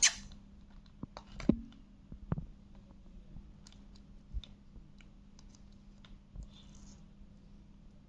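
Scattered light clicks and taps, a ringneck parrot's beak and feet working at a map, with a brief rustle about six and a half seconds in.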